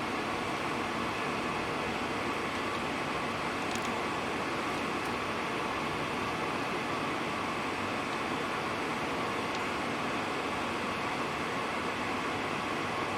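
Steady engine and road noise inside a moving bus cabin, with a few faint ticks and rattles.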